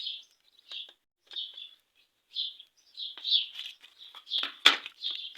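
A small bird chirps repeatedly in short calls, about one or two a second. A single sharp click comes near the end.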